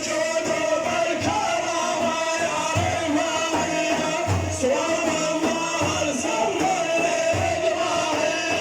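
Arabic folk song by a male maddah: a man singing over a steady held instrumental drone, with a low drum beat about every second and a half.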